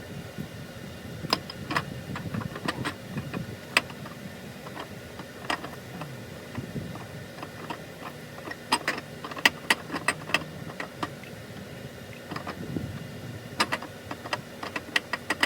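Sharp metal clicks and clinks of hand tools and parts at the engine's timing end as a bolt is fitted into the camshaft nose so the cam can be pulled. Irregular, with quick runs of clicks about nine seconds in and again near the end.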